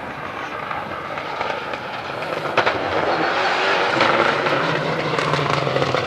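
Rally car engine at full throttle as the car speeds along the stage, growing louder over the first few seconds as it approaches.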